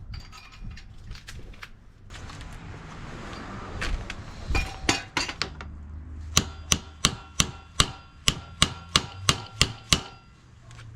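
A few scattered sharp knocks, then a steady run of about a dozen sharp metallic strikes at roughly three a second, each leaving a brief ring, like tool work on a metal part.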